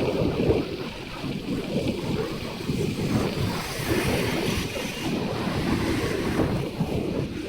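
Wind rushing and buffeting over the microphone of a moving motorcycle, an uneven low rumble with the ride's road noise underneath.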